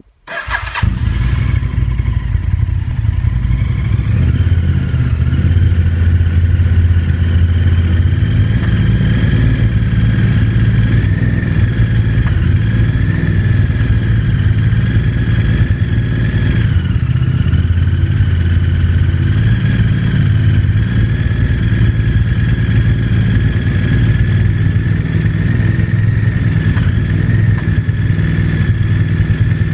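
Honda VTR1000 90-degree V-twin engine started on the starter, catching within the first second, then idling steadily with the knock the owner calls engine knocking.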